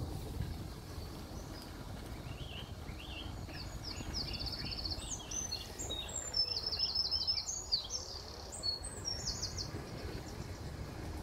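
A songbird singing a string of varied high phrases with fast rattling trills, from about two seconds in until near the end, over a steady low rumble.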